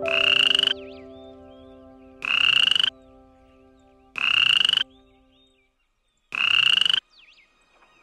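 Four short, pulsed croaking calls like a frog's, about two seconds apart, each rising slightly in pitch, with faint high chirps between them.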